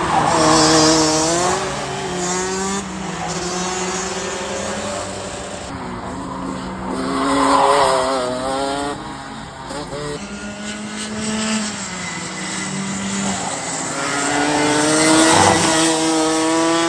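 Go-kart engine at racing speed, the revs climbing along the straights and dropping off into the corners, its pitch rising and falling again and again; it is loudest about a second in, around eight seconds in, and near the end.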